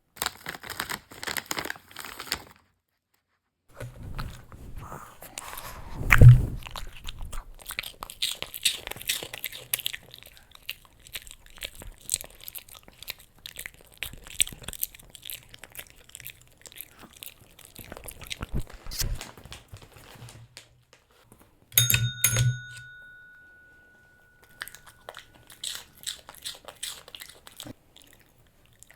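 Japanese Chin dog crunching and chewing a hard treat in stretches of crisp crackling bites. About two-thirds of the way through, a tap bell is struck once and rings out, fading over about two seconds, before the chewing resumes.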